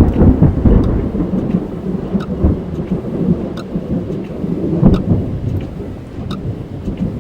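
Thunder rumbling over steady rain, heard from inside a car. A loud peal breaks in suddenly at the start and swells again about five seconds in, while scattered raindrops tick on the car.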